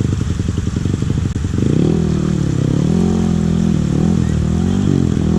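Trail motorcycle engine chugging with rapid low firing pulses. From about two seconds in, it revs up and down repeatedly, its pitch rising and falling.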